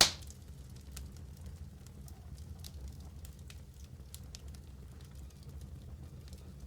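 Wood fire burning in a fireplace: one loud pop right at the start, then scattered small crackles over a steady low rumble of the flames.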